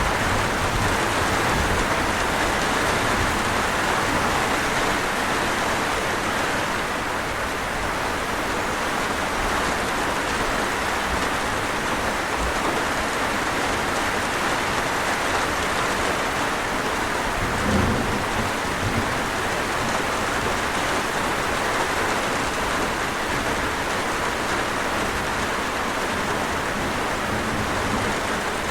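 Steady rain falling, an even hiss of rain on surfaces. Once, about two-thirds of the way through, a brief low thump rises above it.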